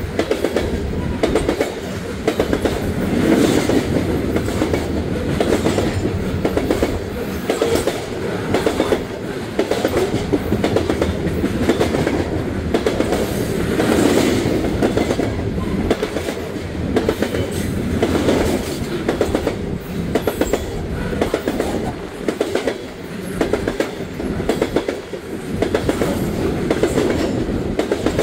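Coal train cars rolling past, their wheels clicking steadily over rail joints in a continuous clickety-clack that swells and fades every few seconds as the cars go by.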